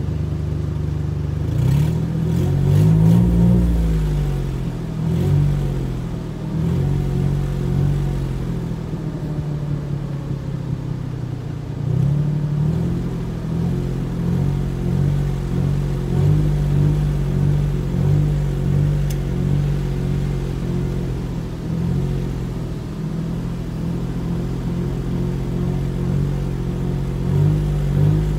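Pony car's engine revved repeatedly while parked: the pitch climbs and drops back to idle again and again, with a few longer pulls and many quick throttle blips, heard from inside the car's cabin.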